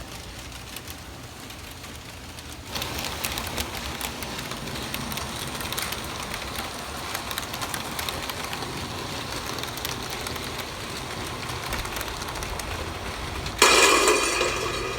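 N scale model train running on its track, a steady rattling hiss that starts about three seconds in. Near the end a louder, brief rustling clatter cuts in over it.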